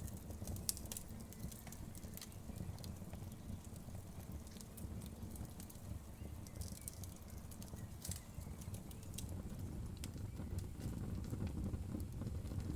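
Wood fire crackling, with irregular sharp pops and snaps over a low, steady rumble of the flames.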